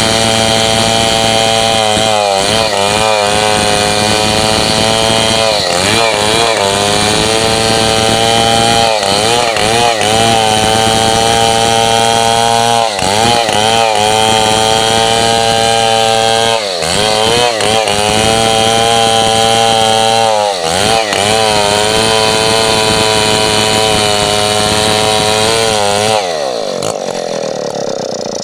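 Stihl 070 chainsaw running at full throttle while cutting coconut wood, its engine note dipping and recovering every few seconds as the chain bites. About two seconds before the end the revs fall away toward idle.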